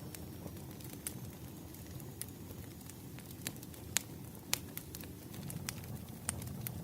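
Wood fire burning, crackling with irregular sharp pops and snaps over a low steady rumble.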